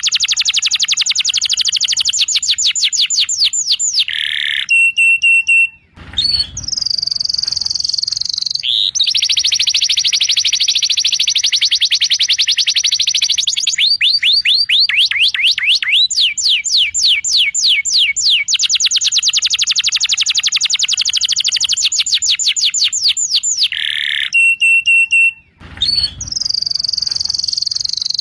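Domestic canary song: long, fast, high-pitched trills of rapidly repeated notes, changing speed from roll to roll, broken by short steady whistled notes. The phrase sequence repeats as a looped training recording does, with two brief cuts marked by a low thump.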